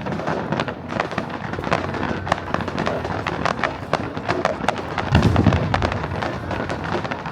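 Aerial fireworks going off: dense, rapid crackling pops, with a heavy low boom about five seconds in.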